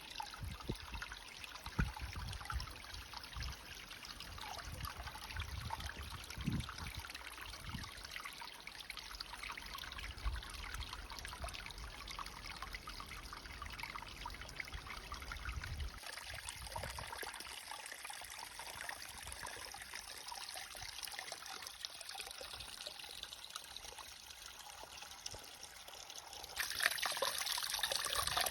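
Running water trickling steadily, growing louder and brighter near the end.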